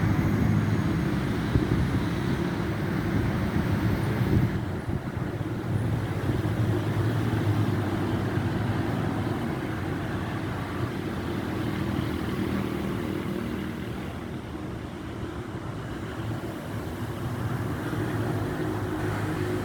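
A road vehicle on the move: a steady engine hum with road noise, easing off a little partway through and picking up again near the end.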